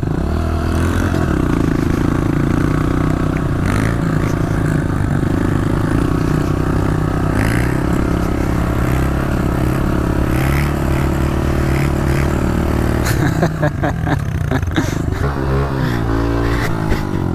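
Honda CRF125 pit bike's single-cylinder four-stroke engine revving hard under acceleration, its note stepping up and dropping back as it shifts through the gears, then easing off near the end.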